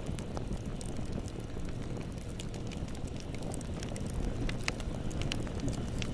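Bonfire burning: a steady low rumble of flames with scattered sharp crackles and pops, a few louder pops coming close together about four to five seconds in.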